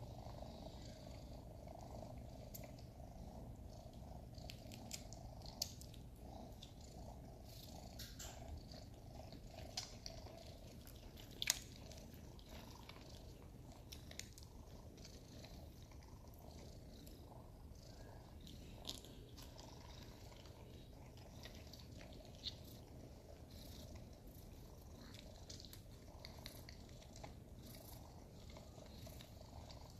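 Sphynx kittens purring steadily and faintly, with scattered small clicks and rustles, the sharpest about a third of the way in.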